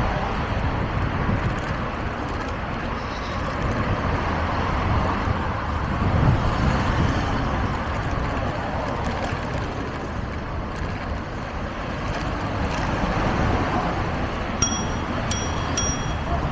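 City street traffic noise heard while riding a bicycle, a steady wash of passing cars and road noise with a low rumble. Near the end come a few short, high beeps in quick succession.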